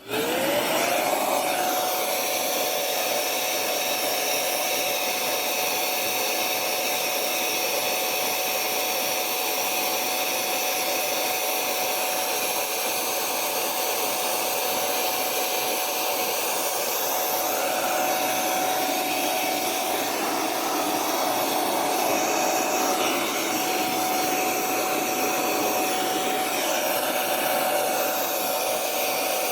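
Small electric blower motor spinning up in the first second, then running steadily with a rush of air and a constant whine.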